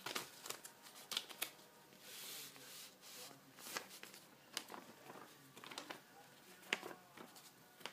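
Sheet of paper being handled and folded into a paper airplane: irregular soft taps and rustles, with a longer swish about two seconds in.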